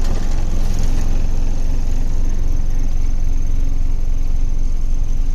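Truck's diesel engine running steadily on the move, a low rumble with a thin, steady high whine above it.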